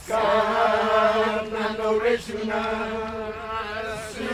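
Voices chanting a traditional song on long, held notes. It starts suddenly and breaks briefly about two seconds in.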